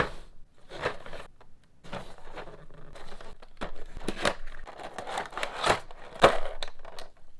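Action figure packaging being handled and opened: irregular rustling, crinkling and tearing of plastic and card, with a few sharper crackles.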